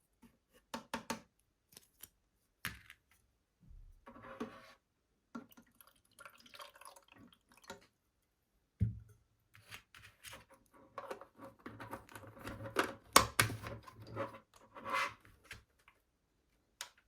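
Handling sounds from a small plastic mini fan humidifier: irregular clicks, taps and rustles. A low steady hum runs for about five seconds in the middle, with a sharp click near its end.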